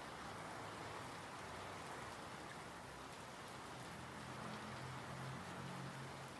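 Steady rain falling, an even hiss of drops with no break. A faint low hum rises under it about four seconds in and fades near the end.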